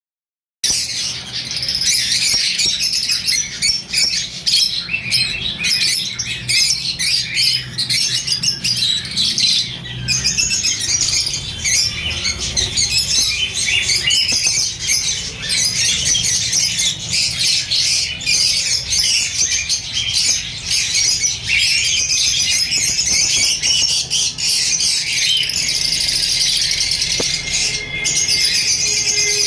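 Many lovebirds calling at once, a continuous dense chatter of overlapping high calls that starts about half a second in.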